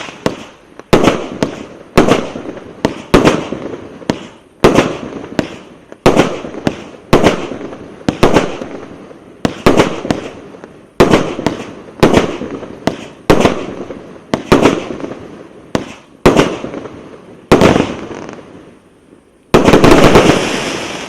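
Eurostar Supernova Box firework cake firing shot after shot: sharp bangs at roughly one a second, each trailing off. Near the end comes a louder, denser burst of shots as the finale, which then fades away.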